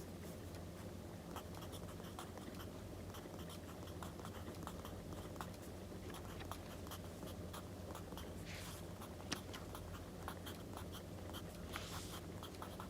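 Wood fire crackling with scattered sharp pops over a low steady hum. Two brief scratchy strokes of writing on paper come about eight seconds in and near the end.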